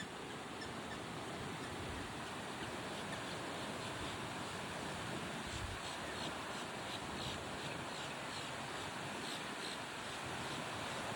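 Wetland outdoor ambience: a steady wash of wind-like noise, with a run of short, high, evenly repeated chirps from a small bird or insect starting about halfway through.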